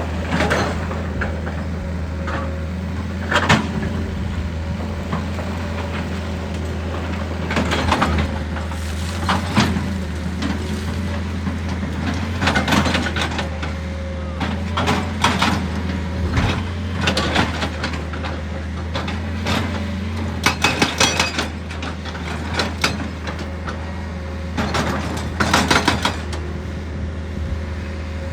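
An excavator's diesel engine runs steadily while rock is worked, with irregular cracks, knocks and crunches, some coming in quick runs of several a second.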